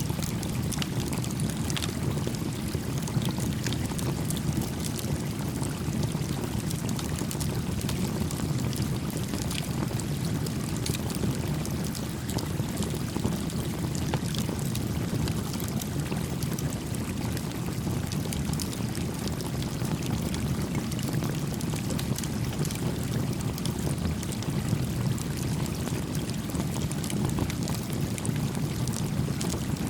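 A creek flowing steadily, a low, even rushing of water, with faint scattered crackles and pops from a small campfire.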